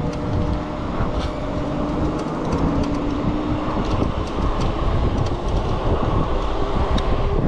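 Wind on the microphone and tyre and road noise from an e-bike being ridden, with a steady low whine and scattered light clicks and rattles.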